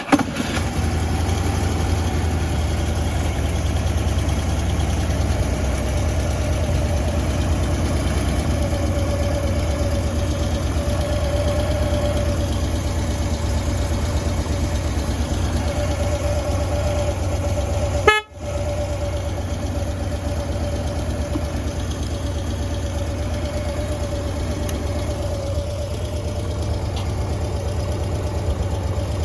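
2008 Harley-Davidson Road King Classic's Twin Cam 96 V-twin catching right at the start and settling into a steady idle. The sound breaks off for a moment about two-thirds of the way through, then the idle carries on.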